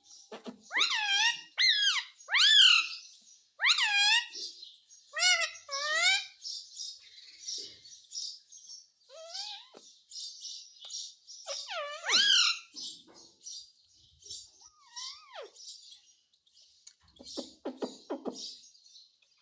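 Indian ringneck parrot calling: a string of loud, short, pitch-bending calls in the first few seconds, softer chattering in the middle, and another loud call about twelve seconds in.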